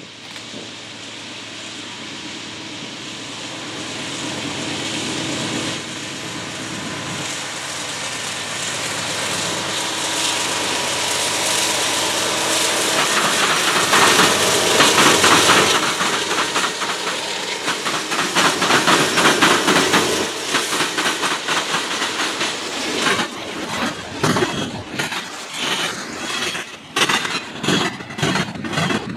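Diesel locomotives of a double-stack freight train approaching and passing, their engine noise building to its loudest about fifteen seconds in. Near the end the container cars roll by with a quick run of clicks from wheels crossing rail joints.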